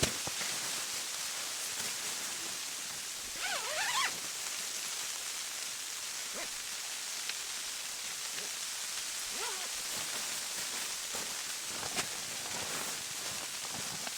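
Wind-blown snow hissing and pattering steadily on tent fabric. About three and a half seconds in there is a short wavering squeak, and a single faint click comes near the end.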